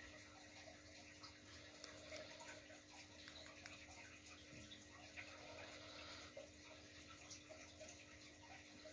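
Near silence: faint room tone with a steady hum and scattered faint ticks.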